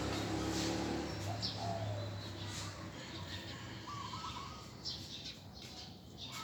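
Dove cooing in short runs of quick notes, with other small birds chirping higher in pitch. A low steady hum fades out in the first second.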